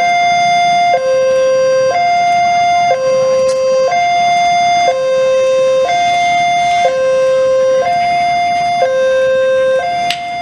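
Two-tone hi-lo siren alternating steadily between a higher and a lower note, each held about a second, loud throughout.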